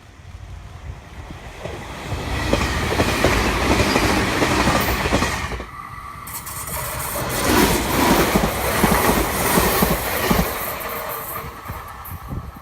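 Meitetsu electric train passing, its wheels clacking rapidly over the rail joints. The sound builds from about two seconds in, dips briefly near the middle, swells again, then fades near the end.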